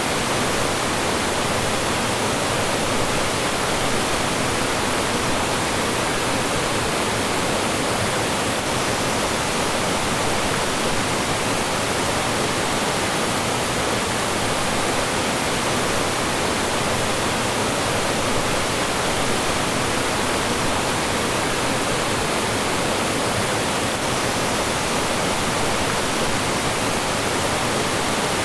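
Mountain stream rushing and splashing over rocks, a steady full rush of flowing and falling water that does not change.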